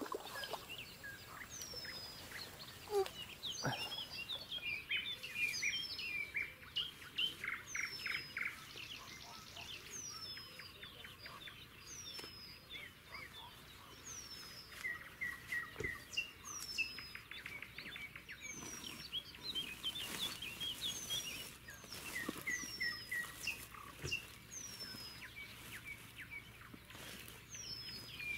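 Songbirds singing: one repeats a short, high, falling whistle every second or two, while others chatter and twitter in between.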